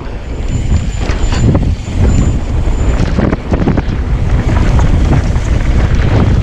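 Wind buffeting an action camera's microphone while a mountain bike is ridden over rocky trail, with frequent short knocks and rattles from the bike.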